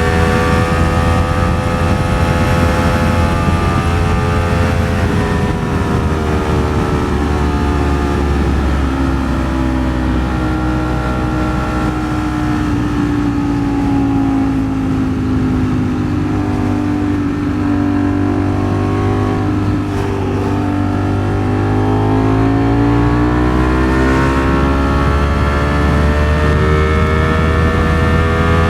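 Ducati Streetfighter V4S's V4 engine pulling at cruise, its pitch easing slowly down through the first half as the bike slows, then rising again as it accelerates, over a steady low rumble.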